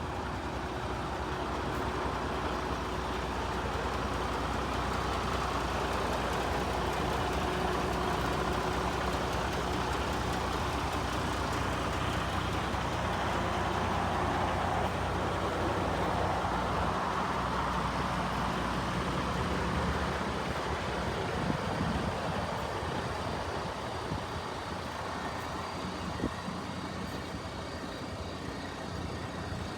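Heavy diesel truck running steadily: a low, even engine hum under a broad rushing noise, easing off slightly after about twenty seconds.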